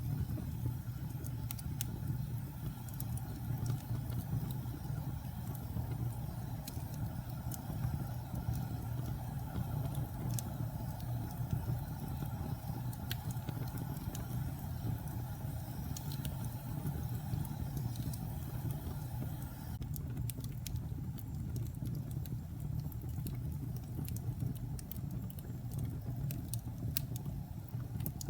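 Wood fire burning in a fireplace: a steady low rumble with scattered sharp crackles and pops, which come a little more often near the end.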